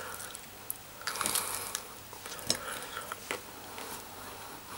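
A person biting into and chewing a crispy, charred chicken wing: faint crunches and wet mouth sounds, with scattered small clicks and a slightly louder patch of crunching about a second in.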